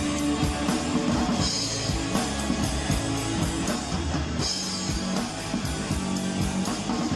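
Live rock band playing an instrumental passage: drum kit keeping a steady beat with cymbal crashes, under distorted electric guitar and bass.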